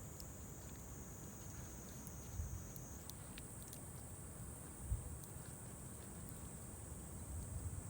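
Faint crackling of a burning wood campfire, scattered small pops, over a steady high-pitched insect chirring that shifts up in pitch about three seconds in. Three low dull thumps come at intervals of about two and a half seconds.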